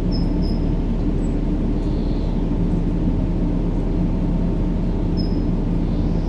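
Steady low, rumbling sleep noise for babies, a constant deep hum-like hiss with no change in level. Faint short high chirps sound now and then, at the start and again near the end.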